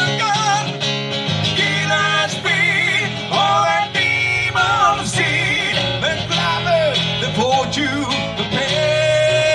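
Live guitar music: an instrumental passage in which a melodic lead line with bends and vibrato plays over sustained backing notes.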